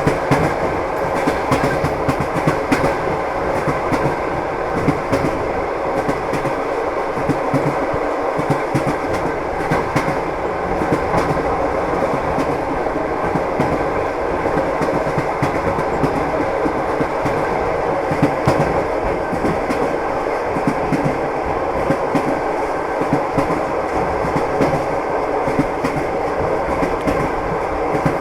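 Train running along the track: a steady rumble with the wheels clattering over the rail joints, many sharp knocks throughout.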